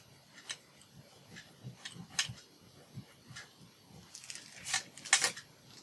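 Paper being handled and pressed into place by hand: scattered light taps and rustles, with a louder run of crinkles a little before the end.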